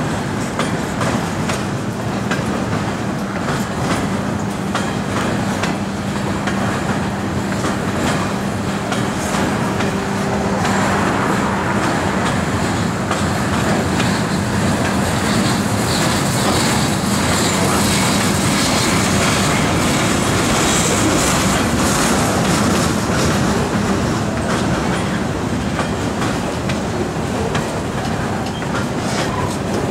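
Freight cars loaded with steel coils rolling past, with a steady rumble of wheels on rail and repeated clicking as the wheels cross rail joints.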